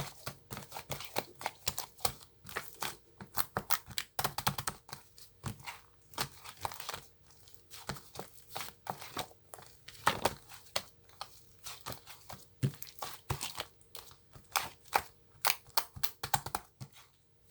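Dense, irregular crisp crinkling and clicking of something being handled, several sharp crackles a second, stopping suddenly at the end.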